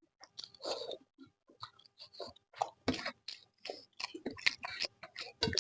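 Close-miked chewing of soft home-cooked food such as potato-cauliflower curry and mashed eggplant: an irregular run of wet mouth smacks and clicks, several a second.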